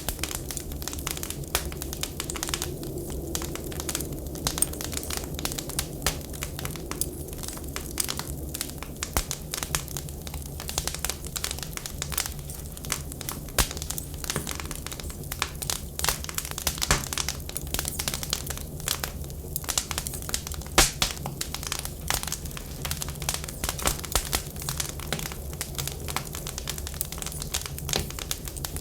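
Wood fire crackling in a fireplace or wood stove: a dense, irregular run of sharp pops and snaps over a steady low rumble.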